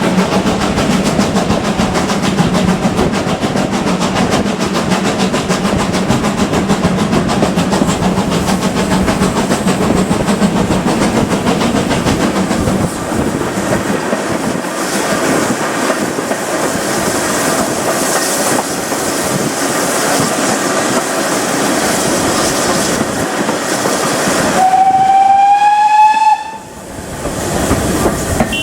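Steam train running with steady rail clatter, its GWR Manor-class locomotive working along the line. Near the end the locomotive whistle sounds once for about a second and a half, rising slightly in pitch, then cuts off suddenly.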